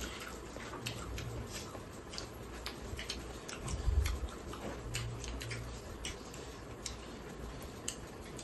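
Eating sounds close to the microphone: people chewing rice and pork with their mouths, making irregular small clicks and smacks.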